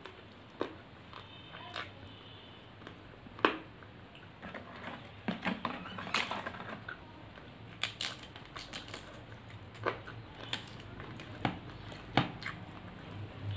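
Close-up eating sounds of someone chewing a mouthful of egg fried rice and chicken curry: scattered wet mouth clicks and lip smacks, the loudest about three and a half seconds in.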